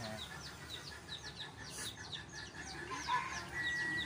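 Bird calls: a rapid run of short, falling chirps, about four a second, with a few lower calls about three seconds in and a brief steady whistle-like tone near the end.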